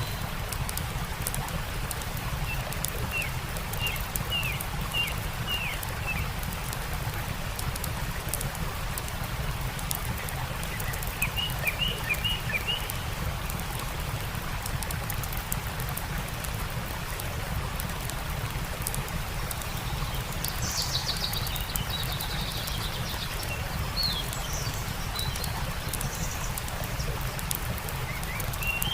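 Steady rush of a stream with a campfire crackling in many small pops. Birds chirp in two short runs of quick notes, with higher calls later on.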